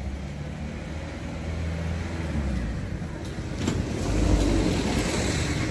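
Motor vehicle engine running with a steady low rumble, growing louder and noisier about two-thirds of the way in.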